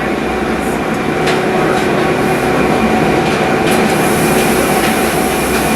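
Electric rack-railway train descending under way: a steady running rumble with several constant whining tones from the drive and rack gear, and a few light clicks.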